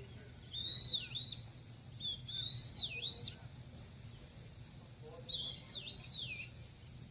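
A songbird singing three phrases of swooping, whistled notes over a steady, high insect drone.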